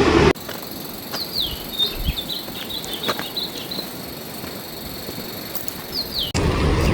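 Outdoor rural ambience with small birds giving short, high, falling chirps and insects droning at a steady high pitch. It is framed by a loud rushing noise that cuts off abruptly at the start and cuts back in abruptly near the end.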